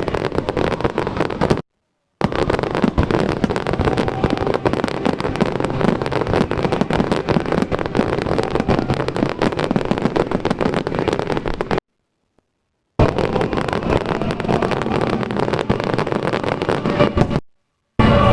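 Fireworks going off in a dense barrage of rapid crackles and pops, the sound cutting out to dead silence three times.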